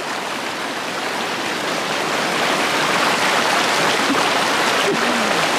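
Mountain river rushing close by, a steady loud rush of water that grows a little louder about two seconds in.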